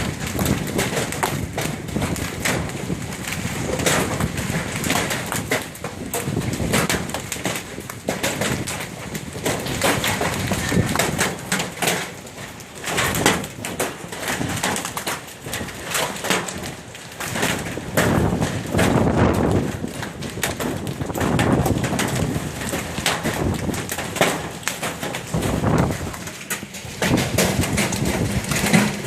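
Heavy hailstorm: hailstones pelting down in a dense clatter of countless hard impacts over a steady rushing noise, swelling and easing in waves every few seconds.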